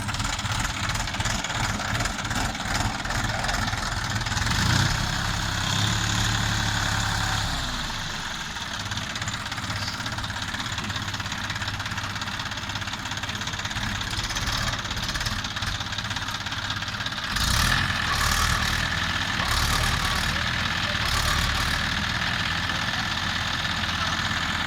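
Tractor diesel engine running at a knocking idle, its speed and loudness changing a few times.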